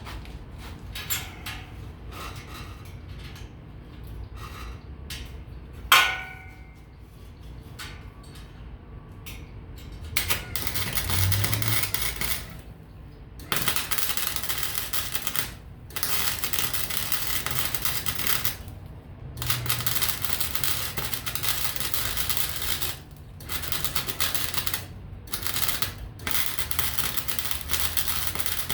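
Electric welding arc crackling in a run of bursts a few seconds long, each starting and stopping abruptly, as pieces of scrap metal are welded together. Before the welding starts there are light clicks, and a sharp metallic clank with a short ring about six seconds in.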